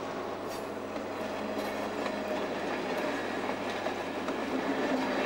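Railway train running along the track: a steady rolling rail noise that slowly grows louder.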